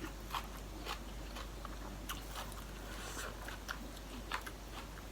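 A person chewing and biting into a spicy seafood salad with raw vegetables close to the microphone, with irregular small crunches and clicks.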